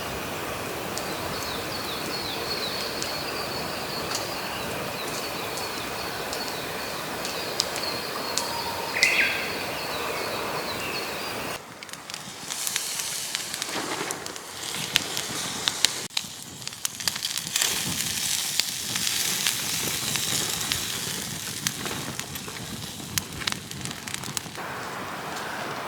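Forest ambience with a steady high-pitched trill and scattered ticks. About halfway through the sound changes abruptly to a wood campfire crackling, with hissing and frequent sharp pops.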